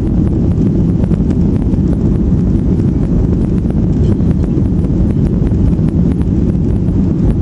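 Boeing 737-800 jet engines and rushing airflow heard from inside the cabin: a loud, steady low rumble.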